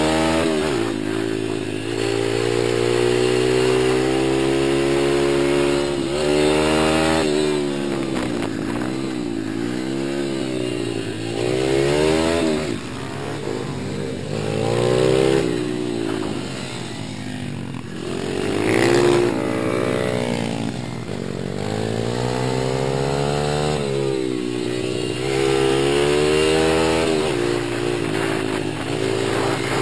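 Small single-cylinder four-stroke pit bike engines being ridden, revving up and down again and again, the pitch climbing and falling with each throttle change and shift.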